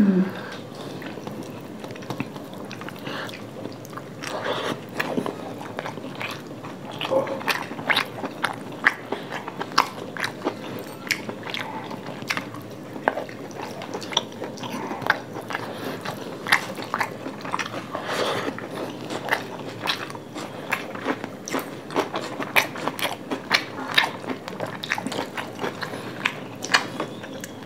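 Two people eating fried rice and chilli chicken by hand, chewing with a steady run of short mouth clicks throughout.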